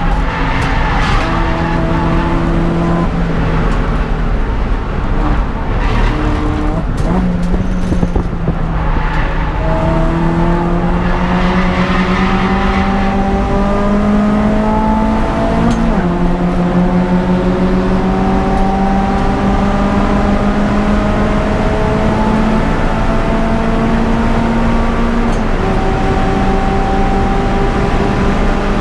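Peugeot 206 GTI's four-cylinder engine running hard under racing load. The revs climb slowly and drop sharply at each upshift, several times, and there is tyre and road noise underneath.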